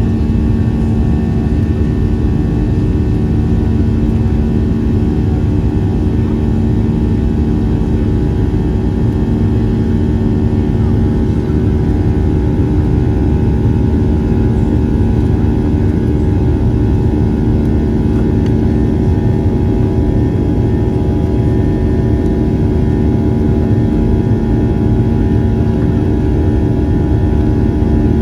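Boeing 737 jet engines and rushing airflow heard from inside the cabin: a steady, unchanging drone with a low hum and a few steady tones over a roar of air noise.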